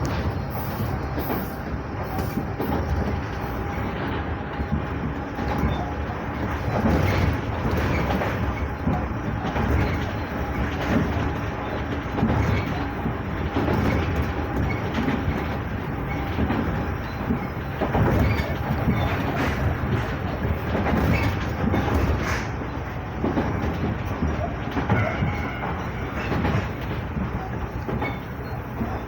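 Sangi Railway 5000 series electric train running between stations, heard from inside the car: a steady rumble of wheels on rail with irregular clacks as the wheels pass over rail joints, and a faint steady hum.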